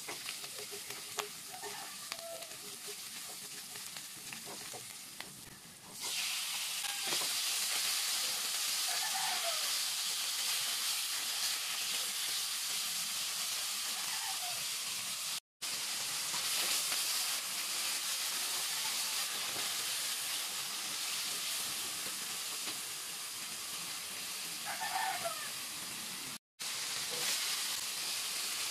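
Food frying in oil in a nonstick pan, a steady sizzle stirred with a silicone spatula: first sliced onion and garlic, then raw chicken pieces. About six seconds in, the sizzle turns suddenly louder as the chicken hits the hot oil. It is broken twice by brief silences.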